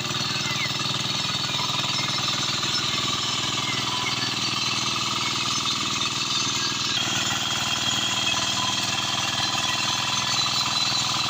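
Walk-behind hand tractor's engine running steadily with a rapid, even chugging. The sound shifts abruptly about seven seconds in.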